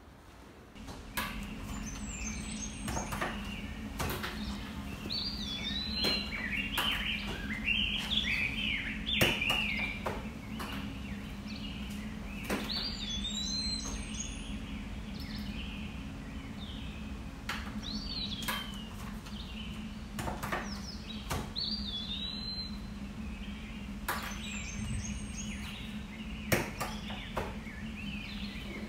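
A bird singing a short chirping phrase of swooping notes, repeated every few seconds, over a steady low hum, with occasional sharp clicks.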